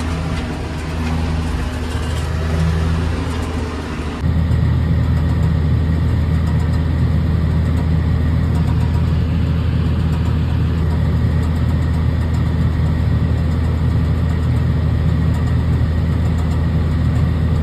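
John Deere 7420 tractor's diesel engine running steadily while pulling a round hay baler. About four seconds in, the sound abruptly gets louder and stays that way.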